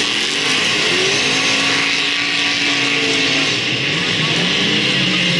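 Speedway race car engines running, several at once, their pitch rising and falling as the cars go round, over a steady loud hiss.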